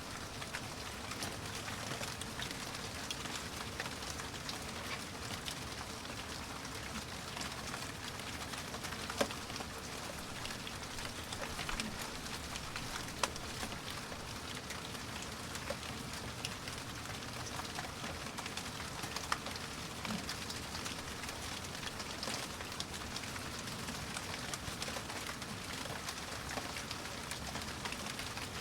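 Steady rain falling, a dense even patter of drops with scattered louder single drips, about 9, 13 and 19 seconds in.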